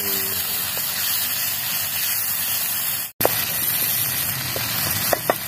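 Chopped shallots, garlic, chili and ginger in oil and sauce frying in a wok, a steady sizzling hiss that cuts out for an instant just after three seconds. A few sharp clicks come near the end.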